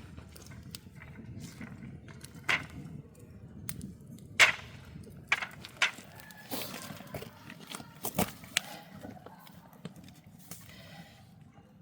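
A handful of sharp knocks and clatters at uneven intervals, the loudest about four and a half seconds in, over a low steady rumble.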